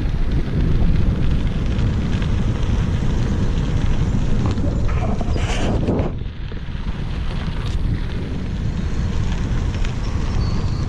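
Wind buffeting the microphone of a camera riding along on a moving bicycle, a steady low rumble. A louder hissing rush comes about five seconds in, and then the sound briefly eases off.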